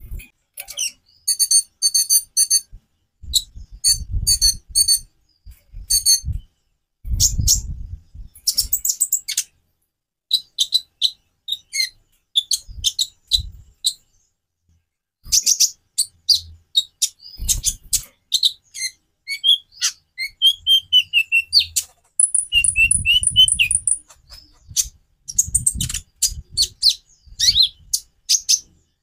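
A caged konin (kolibri ninja) sunbird singing: rapid high, sharp chips and short twittering runs with brief pauses. A fast buzzy trill comes about two thirds of the way in. Low thumps come at intervals between the phrases.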